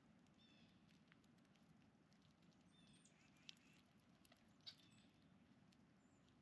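Faint, sparse chirps and short calls of songbirds, with two sharp clicks, over a low steady hum.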